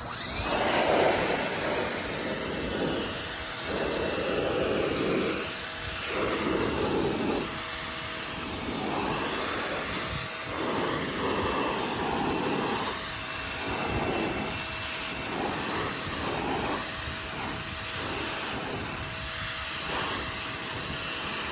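Greenworks 2000 PSI electric pressure washer starting up and running, with a steady high hiss from its spray jet. A lower, swishing spray noise swells and fades every second or two.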